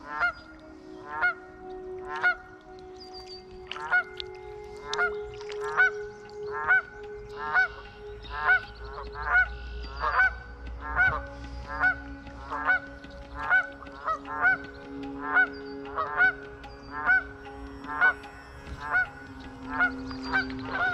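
A bird calling over and over from the marsh, one short call about every second, with a low steady drone underneath.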